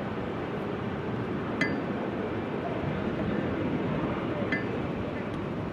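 Steady city street hubbub with two short, ringing clinks, about a second and a half in and again near the end.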